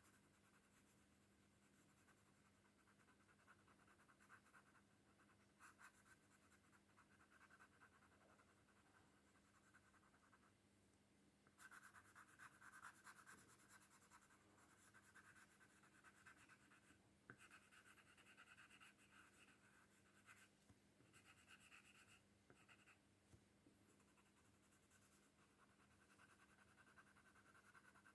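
Faint scratching of a pen or pencil on paper: repeated shading strokes that come in irregular runs and are densest past the middle, over a faint steady hum.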